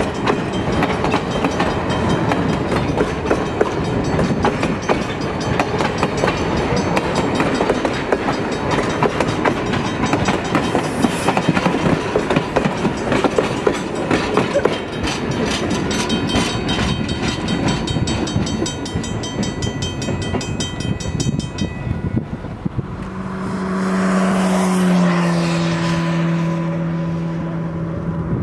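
Passenger coaches and a caboose rolling past close by, their steel wheels clicking over the rail joints. Near the end, a steam locomotive whistle sounds one long held blast, its pitch stepping down slightly partway through.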